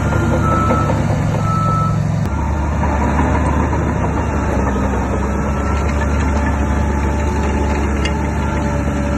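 Heavy earthmoving machinery with its diesel engine running steadily, and a reversing alarm beeping a few times in the first two seconds. The engine sound shifts abruptly about two seconds in.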